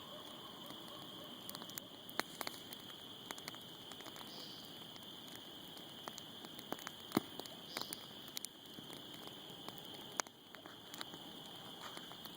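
Campfire crackling, with irregular sharp pops, several louder ones standing out, over a steady high-pitched background hum.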